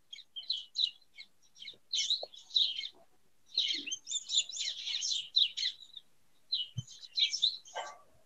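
Small birds chirping faintly in quick, irregular bursts of high notes, with a brief soft knock about seven seconds in.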